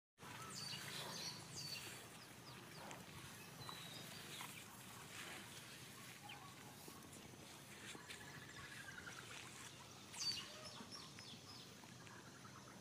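Birds chirping faintly: scattered short high chirps and whistles, with a descending trill about eight seconds in and a sharper call about ten seconds in.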